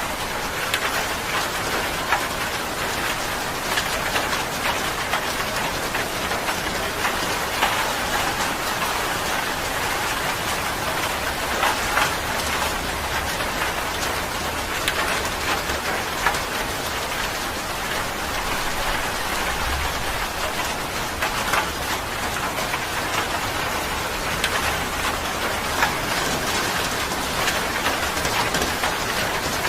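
Steady rain falling, with many small drops pattering on a surface, and a faint low rumble in the middle.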